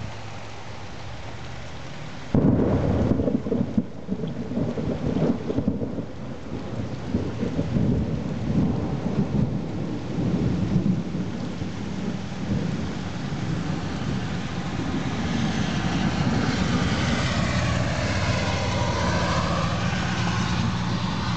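Thunder over steady rain: a sudden loud clap about two seconds in that rumbles on unevenly for about ten seconds. Near the end a hiss swells louder.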